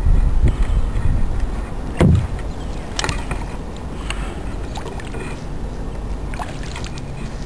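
Kayak paddling: paddle strokes through the water with low rumble. There is a sharp thump about two seconds in and small knocks and clicks after it.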